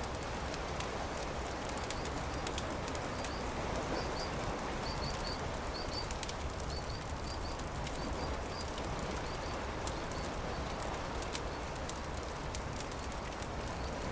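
Campfire crackling, with scattered sharp pops over a steady rushing background. A small bird chirps over and over through the middle.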